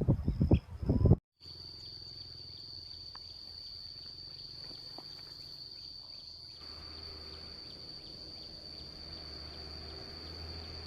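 A few low thumps in the first second. Then, after a cut, a steady high-pitched insect trill holds one unbroken tone over a low hum.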